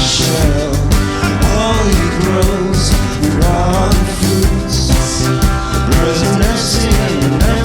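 A rock band playing without words: drums with repeated cymbal crashes, bass and guitars, and a melody line that bends in pitch.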